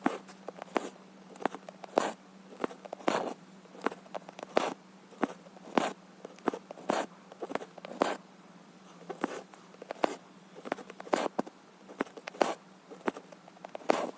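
Needle and embroidery floss being stitched through cross-stitch fabric: a run of short, scratchy pokes and pulls, about one to two a second.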